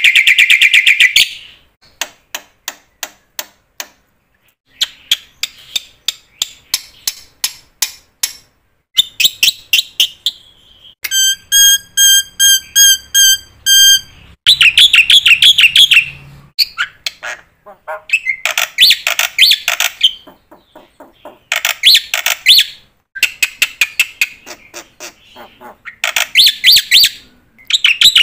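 Bird calls: a series of rapid, loud trills and chirps, each lasting one to two seconds with short pauses between. About halfway through comes a run of evenly repeated notes on one pitch.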